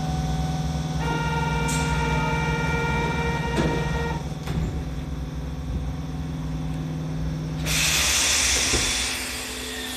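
Kyoto Municipal Subway Tozai Line 50 series train: a steady electrical hum with a set of steady high tones for a few seconds. About eight seconds in comes a loud hiss of compressed air lasting about a second.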